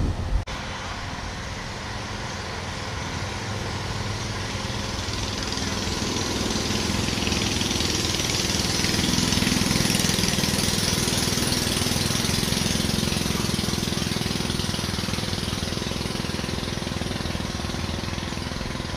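Kubota DC-105X combine harvester running steadily: a diesel drone with the hiss of its threshing and cutting gear. It grows louder to a peak about halfway through, then eases off.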